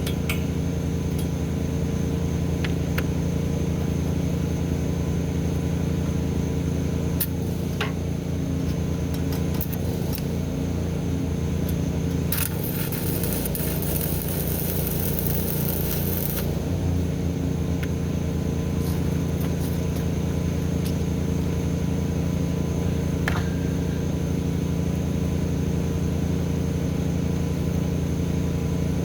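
An engine running steadily at an even speed, with a few sharp clicks and a high hiss lasting about four seconds midway.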